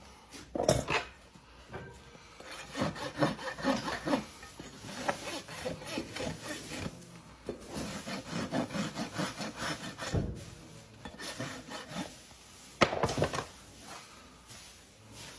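Hand tools scraping at a horse's hoof in runs of quick, short strokes with brief pauses between, as dirt and horn are pared and cleaned out. There are sharp scrapes or knocks about half a second in and again near the end.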